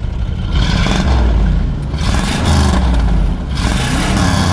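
Car engine revving hard in three loud swells, each rising and falling in pitch, with a scraping, whirring noise over it.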